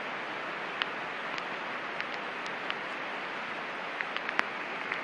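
Heavy rain pouring down steadily, with a scattering of sharp ticks from drops striking close by.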